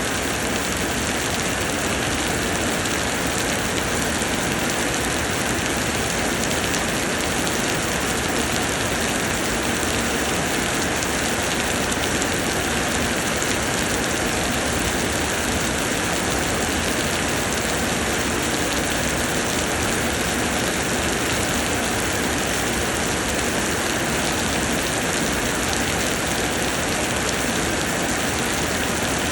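Summer rain pouring down steadily, an even, unbroken hiss of many drops with no change in strength.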